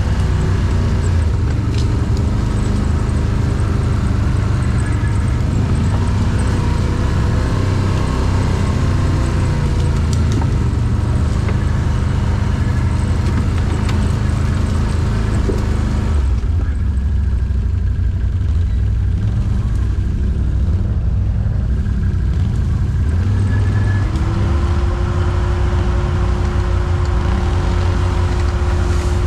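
Quad bike engines running steadily. A second steady engine note joins near the end.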